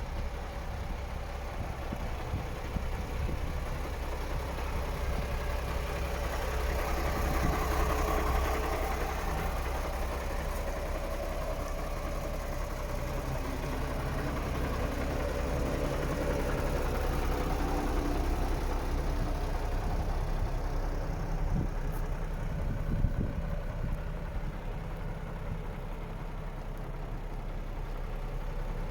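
MAN TGX 26.460 truck's 12.4-litre straight-six diesel engine idling steadily, getting a little louder for a few seconds about a third of the way in.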